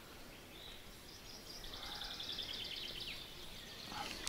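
Quiet outdoor background with small birds chirping faintly, including a quick, rapid trill in the middle.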